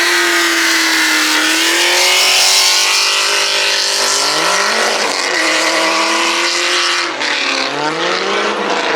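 Car doing a burnout: the engine is held at high revs while the rear tire spins and squeals. The engine note dips and climbs again twice in the second half.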